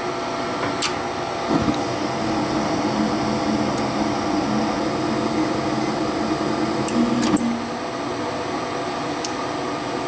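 Gas furnace running on inverter power: the draft inducer motor hums steadily with several steady tones. About a second and a half in a lower hum starts and runs until it cuts off after about seven seconds, with sharp clicks near the start and at the cutoff.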